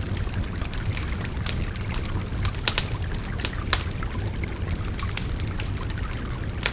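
Wood fire crackling with frequent sharp pops, the loudest few near the middle, over the steady rush of a babbling stream.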